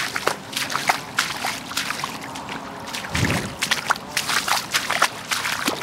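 Floodwater sloshing and splashing in quick, irregular strokes, with a deeper thump about three seconds in.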